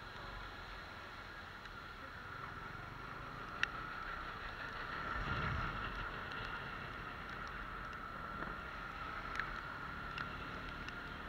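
Bajaj Pulsar 150 NS motorcycle under way on a wet road: a steady mix of engine, tyre and wind noise that swells a little about halfway through, with a few sharp ticks.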